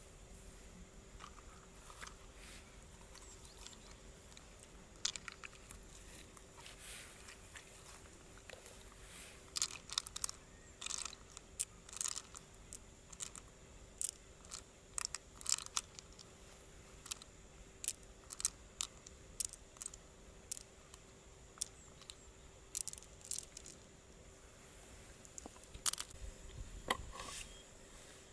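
Freshwater mussel shells being handled and opened: irregular sharp clicks, crunches and scrapes of shell, coming thickest in the middle, with a short last flurry near the end.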